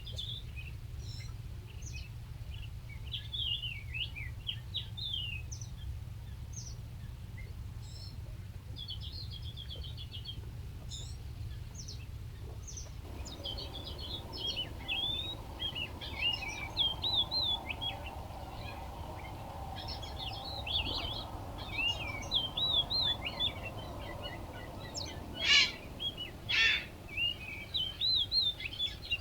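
Small songbirds chirping and twittering in quick high notes, over a steady low rumble of background noise. Two loud, sharp notes come near the end.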